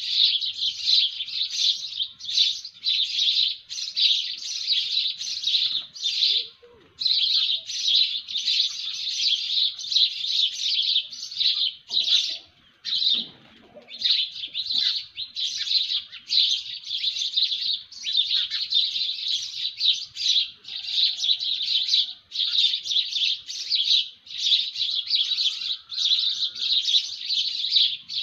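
Dense chirping of many small birds in a morning chorus, the calls tumbling over one another almost without a break. There are brief pauses about six and a half seconds in and again around thirteen seconds.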